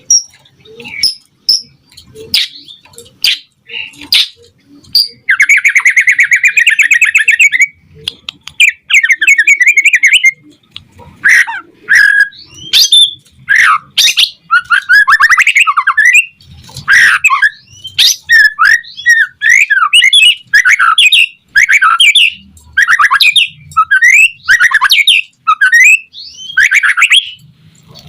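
White-rumped shama in full song: a few sharp single notes, then a fast buzzy rattle about five seconds in, then a rapid run of varied whistled and scratchy phrases.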